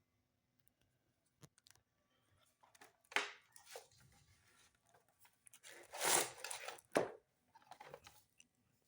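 Handling noises at a workbench: scattered clicks and a few short scratchy, tearing-like bursts, the loudest about six seconds in, followed by a sharp click.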